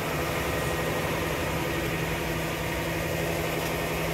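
Car engine idling: a steady, even hum with a constant low tone.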